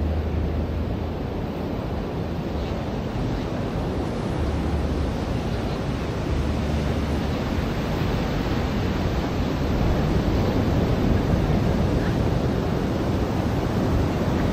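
Ocean surf washing onto a beach: a steady wash of water noise with a low wind rumble on the microphone, growing a little louder about ten seconds in.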